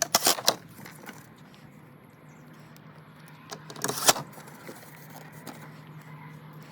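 Small metal parts clinking and jingling in two short bursts, at the start and about four seconds in, over a steady low hum.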